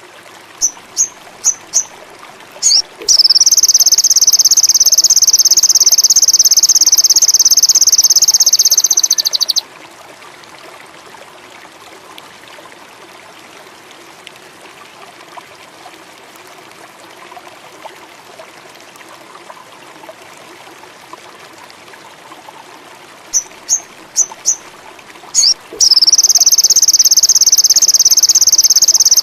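Indigo bunting song: a few sharp high chip notes, then a long, loud, rapid high trill lasting about six seconds. After a quiet stretch of faint background hiss, the same chips and trill start again near the end.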